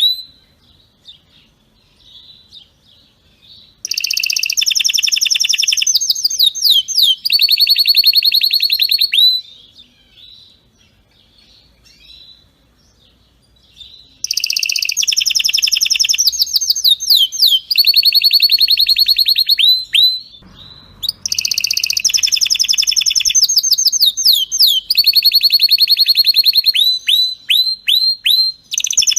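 Domestic canary singing in long, rapid trilled phrases with falling sweeping notes. Three stretches of song, starting about four seconds in, after a pause about fourteen seconds in, and again about twenty-one seconds in, with quieter gaps between.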